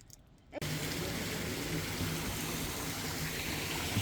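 Steady rush of flowing water that starts abruptly about half a second in.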